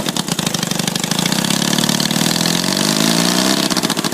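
Honda CB125 engine on a go-kart running loud and steady through custom exhaust pipes with washers in them for back pressure, just after starting for the first time in 15 years. The revs rise briefly near the end.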